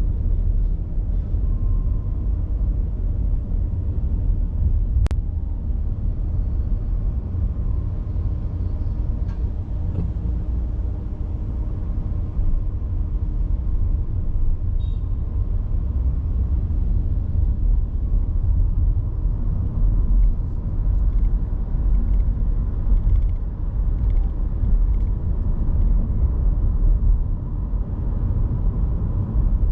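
Steady low rumble of a car driving, road and engine noise, with one sharp click about five seconds in.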